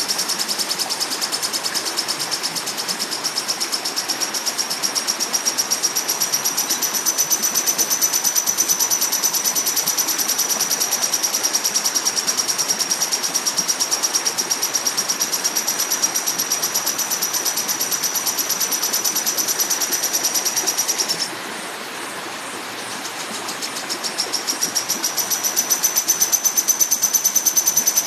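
Lovebird giving a long, high-pitched trill of very rapid even pulses (the 'ngekek' chatter), breaking off about 21 seconds in and starting again a couple of seconds later.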